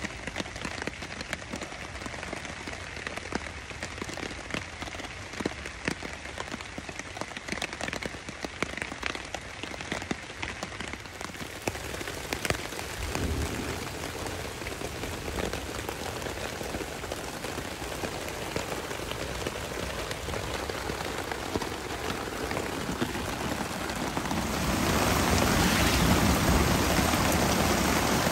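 Rain falling, with many separate drops ticking close by in the first half, then a steady wash of rain that gets louder near the end.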